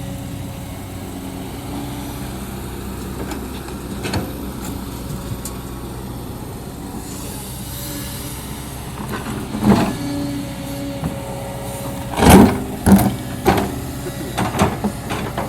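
Kobelco SK200-10 excavator's Hino diesel running steadily under load. From about two-thirds of the way in, several loud sharp bangs sound as the bucket strikes and scrapes rock in hard soil.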